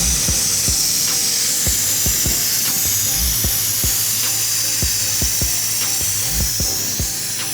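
Sandblaster blasting steadily, a loud high hiss of compressed air and abrasive, with background music and its beat underneath.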